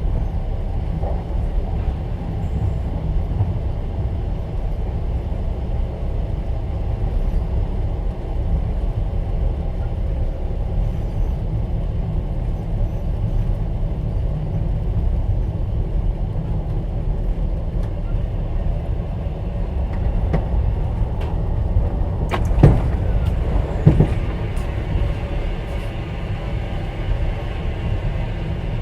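Steady low rumble of a passenger train running, heard inside a platskart sleeper carriage. About three-quarters of the way through come two sharp knocks a little over a second apart.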